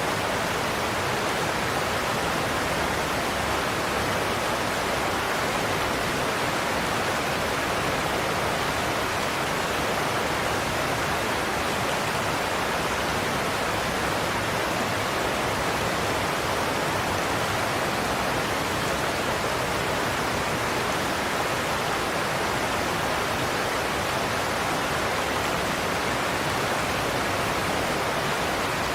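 Godafoss waterfall: a steady, unbroken rush of falling water, with no change in level.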